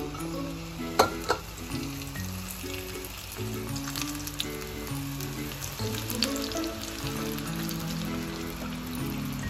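Batter-coated bitter gourd slices sizzling as they deep-fry in hot oil in an iron kadai, with a couple of sharp clicks about a second in. Soft background music with held notes plays under it.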